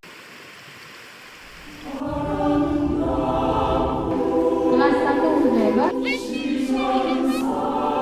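A group of voices singing together, holding long notes with some slides in pitch; it starts about two seconds in, after a faint hiss.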